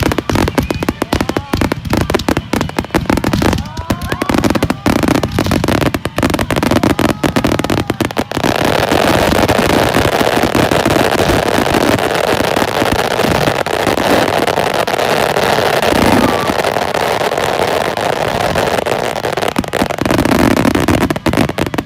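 Aerial fireworks going off: a rapid barrage of sharp bangs and crackles, which about eight seconds in merges into a dense, continuous wash of noise that holds steady to the end.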